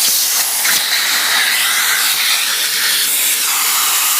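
Numatic Henry canister vacuum cleaner running, with a loud steady hiss of air rushing through its hose as it sucks up sweets.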